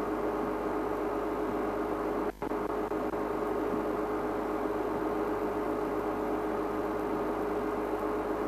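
Steady mechanical hum over a constant hiss, cutting out for a moment a little over two seconds in.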